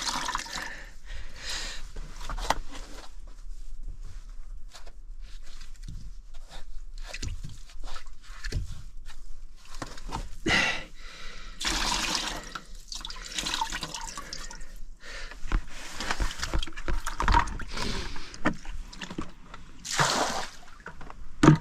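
Water dripping and trickling in irregular splashes as a sponge is used to soak up and wring out the seep of water from a small boat's leak. There are louder splashes about halfway through and near the end.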